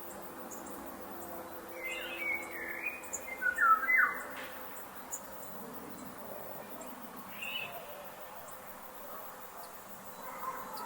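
Forest ambience with birds calling: a run of short chirps and whistled calls about two to four seconds in, loudest near the end of the run, and one more brief call later, over a steady soft background hiss.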